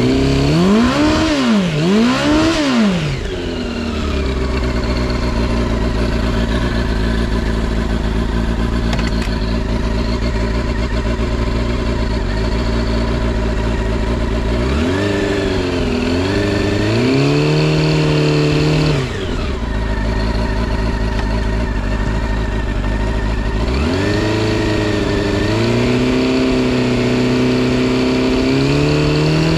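Honda CB400SF VTEC Spec1's inline-four engine through a Double R's aftermarket exhaust. It is blipped three times quickly, then idles, and twice is held at raised revs for a few seconds before dropping back to idle. It runs smoothly with no unusual noises.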